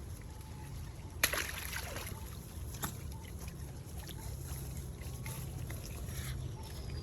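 Water splashing and sloshing over a low steady rumble, with one sharp splash about a second in and a smaller one near three seconds.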